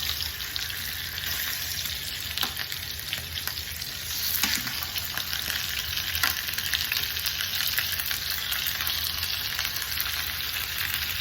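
Pork chops searing in a very hot skillet: a steady sizzle with fine crackles and a few louder pops, growing a little louder about four seconds in.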